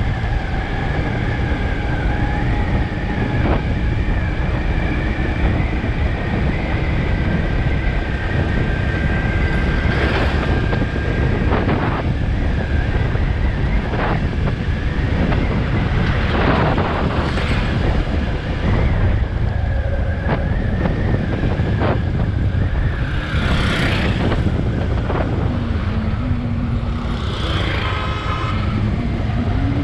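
Highway road noise: steady engine and tyre rumble with wind on the microphone. Several vehicles rush past, and a horn-like tone sounds near the end.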